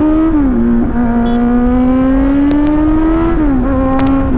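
Motorcycle engine accelerating under load, its pitch climbing steadily and dropping sharply twice as it is shifted up through the gears.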